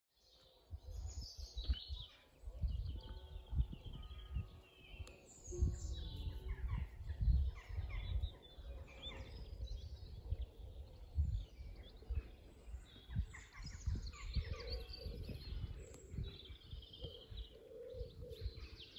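Small birds chirping and twittering, many short calls overlapping, over irregular low rumbling. The sound starts about a second in.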